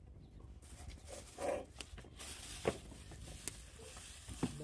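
A short animal call about one and a half seconds in, followed by a few sharp clicks and knocks.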